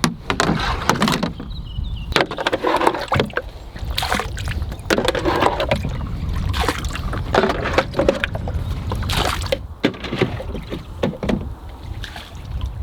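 Canoe paddling: a paddle dipping and pulling through the water in repeated splashing strokes, about one every second or so, with water sloshing and an occasional knock.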